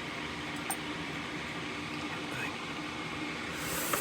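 Steady low hum, like a small fan running, with a light tick about a second in and a short hiss near the end.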